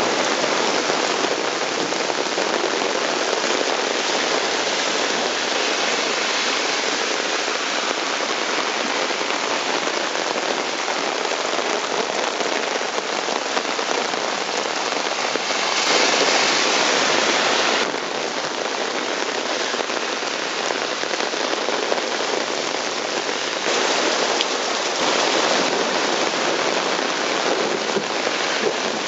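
Heavy thunderstorm rain pouring down and splashing on the street, a steady dense hiss that swells louder for about two seconds midway through.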